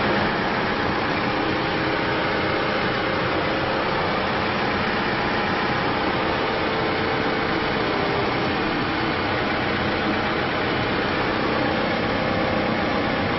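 Diesel engine of a Case 580N backhoe loader running steadily at low speed, with no change in pitch or level.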